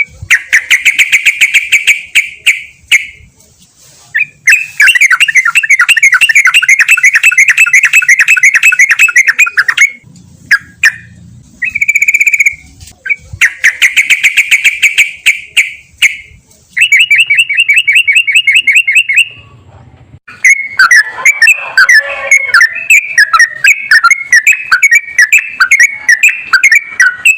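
Sooty-headed bulbul (trucukan) singing loudly in long runs of rapid repeated notes. The phrases come one after another with short breaks between them.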